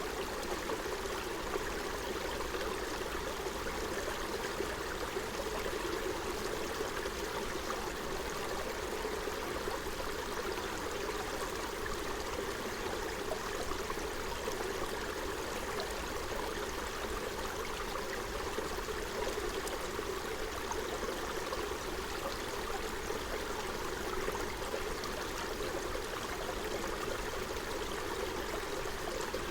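Forest stream running over stones: a steady babble and gurgle of flowing water.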